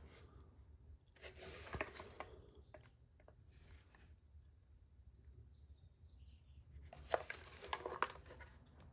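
Hands handling the plastic parts of an RC car being taken apart: two bouts of rustling with sharp clicks, one about a second in and a louder one near the end.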